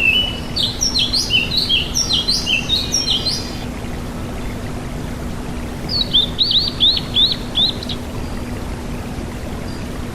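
Tledekan gunung (Sunda robin) singing: a varied, chattering run of high whistled notes, then after a pause a quick series of about eight down-slurred whistles. A steady rushing water-like noise runs underneath.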